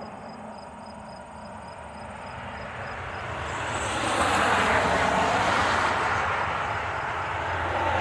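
Distant engine noise, a rushing sound with a low hum beneath it, swelling steadily over the first few seconds and then holding. Faint crickets trill at the start before it covers them.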